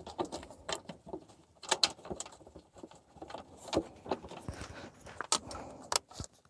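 Scattered light clicks and knocks as a lawn tractor's plastic side shields are handled and fitted back into place.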